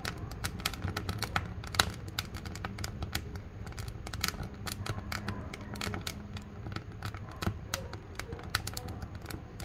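Wood fire burning in a wood-fired cookstove, crackling with many irregular sharp pops and snaps over a steady low rumble.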